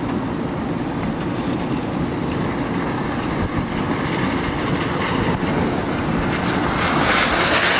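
Steady low rumble of a car rolling slowly with a window open, with wind rushing past; the rush swells near the end.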